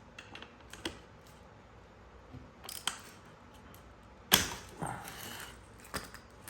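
Scattered clicks and knocks of handling, with one loud sharp knock about four seconds in followed by a short rustling scrape.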